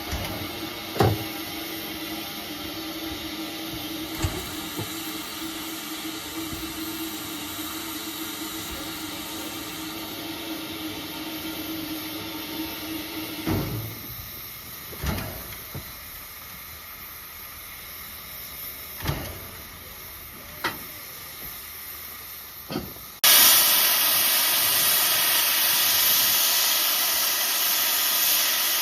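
Steam locomotive at rest: a steady hum with a few scattered metallic clanks, then about 23 seconds in a sudden loud rush of hissing steam that keeps going.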